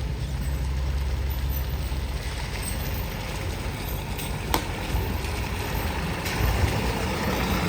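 Truck engine running steadily at low revs, a deep rumble, with a single sharp click about four and a half seconds in.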